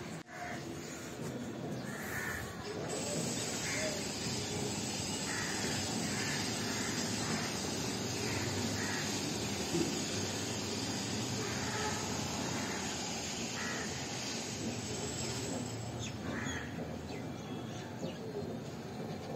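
Short, repeated bird calls, about one a second, over a steady background hiss.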